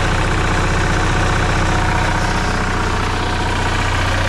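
RV generator engine running steadily through its repaired muffler, with a little knock that the owner notices.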